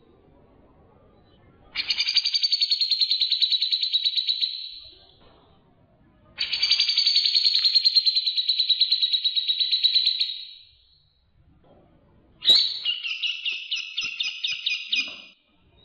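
Songbird calling in three bouts: two long, rapid trills of about three to four seconds each, sliding slightly down in pitch, then a shorter choppy chatter near the end.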